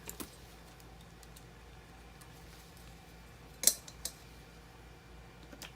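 Light metallic clicks of blower-motor mounting hardware being handled as the motor is seated in its bracket, with one sharper clack about two-thirds of the way in, over a faint steady hum.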